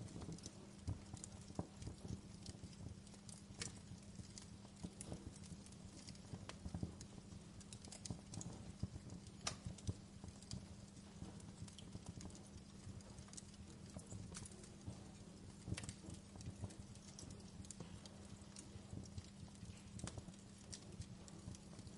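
Wood fire crackling in a fireplace: irregular sharp pops and snaps of burning firewood over a low, steady rumble of the flames.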